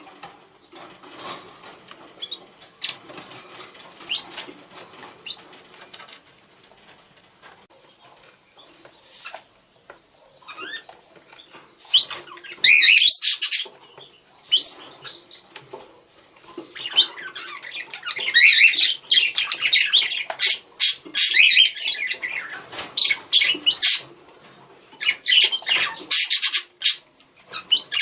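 Budgerigars calling to each other: scattered short rising contact chirps, faint at first, then from about twelve seconds in several loud bursts of rapid warbling chatter.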